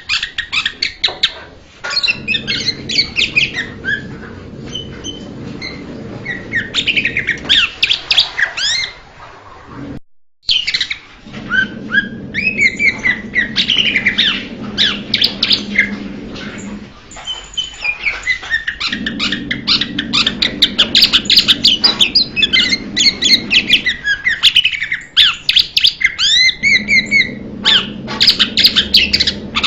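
Blue-winged leafbird singing: a rapid, varied run of chirps and whistled notes, broken off briefly about ten seconds in. A low hum sits underneath at times.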